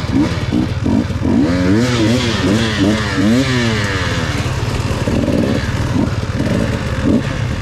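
Dirt bike engine revving up and down several times in quick succession, its pitch zigzagging, then running rougher at lower revs.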